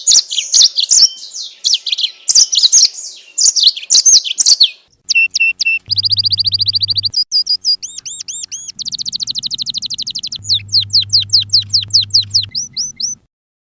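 Recorded songbird song: loud, rapid falling whistled phrases for about five seconds, then a different bird's fast trills and repeated looping notes with a low hum under them, cutting off abruptly near the end.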